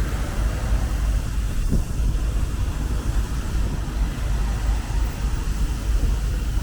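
Outdoor city ambience made up of a steady low rumble with wind buffeting the microphone and no distinct events.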